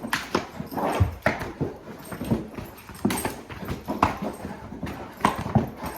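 A big Cane Corso's paws thudding and scuffling on the floor in irregular steps during rough play.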